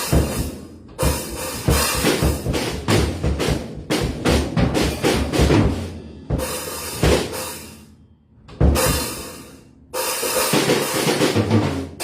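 Drum kit played freely and unevenly: bursts of kick drum, snare and cymbal hits, broken by short pauses about halfway through.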